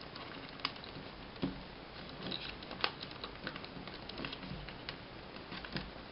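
Sheet of paper being folded and creased by hand: irregular crinkling and small crackles, with a few sharper clicks about half a second, three seconds and almost six seconds in.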